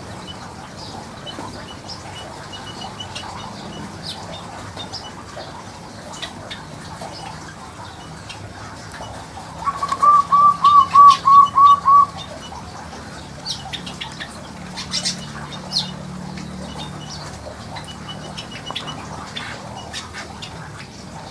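Birds in an aviary: scattered faint chirps and clicks, with one bird giving a quick run of about nine clear, even notes about ten seconds in, the loudest sound.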